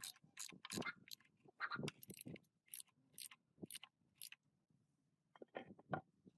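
A quick, irregular series of light clicks and clinks, like small hard objects being handled, with a short pause before a last few near the end.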